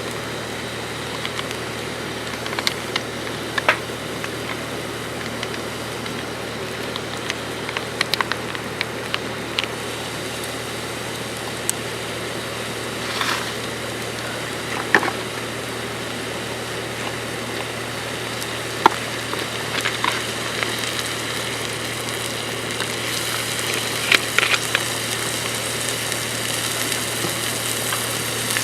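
Food sizzling in a frying pan, with scattered pops and clinks; the sizzle grows louder near the end.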